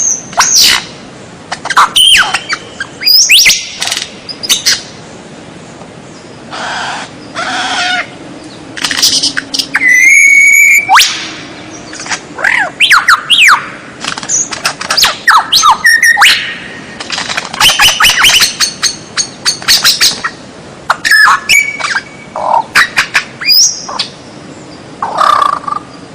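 White-rumped shama (murai batu) singing a varied song: loud short phrases of clear whistles, quick rising and falling sweeps and fast rattling trills, separated by brief pauses.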